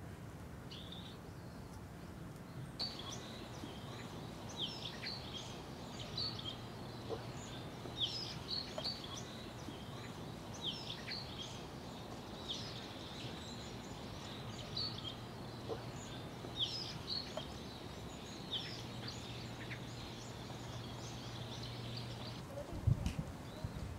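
Small birds chirping, many short calls overlapping, over a steady low hum of background noise. A few low thumps come near the end.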